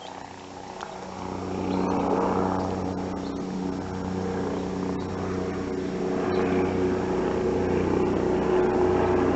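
Helicopter flying over: a steady engine and rotor drone that grows louder over the first couple of seconds, then holds steady.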